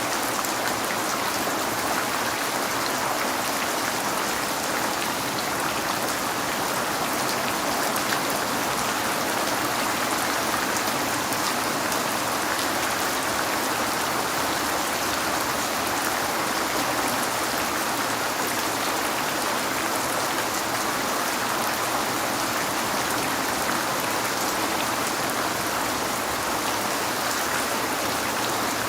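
Rain falling steadily on a window: an even hiss of water with many fine, close-spaced drop ticks, unchanging in level.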